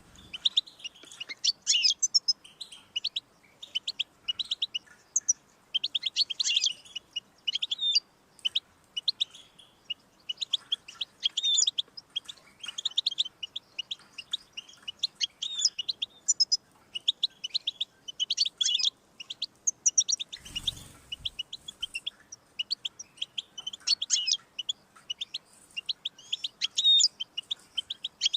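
European goldfinch singing: long, rapid twittering phrases of quick high notes and trills, broken by short pauses. A brief low thump sounds about two-thirds of the way through.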